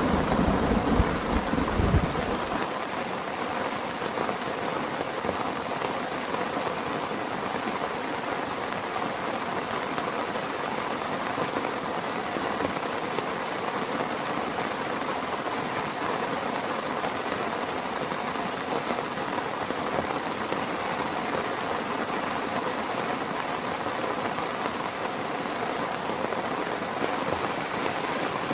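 Heavy rain falling steadily in a thunderstorm. A low rumble of thunder ends about two seconds in, leaving the even hiss of the downpour.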